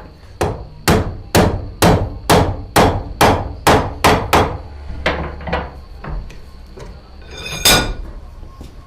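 Blacksmith's hammer striking hot steel on an anvil, about two blows a second, a dozen strong blows that then grow lighter. A single louder, ringing clang comes near the end.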